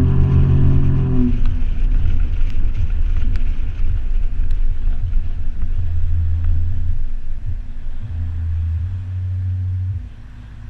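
Toyota 4Runner engine running through a Flowmaster 40 Series exhaust: a deep, steady rumble, with a brief swell of fuller engine note in the first second. The rumble drops off sharply near the end.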